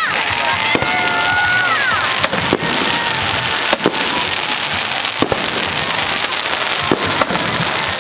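Aerial fireworks bursting close overhead: continuous dense crackling, with sharp bangs going off every second or two.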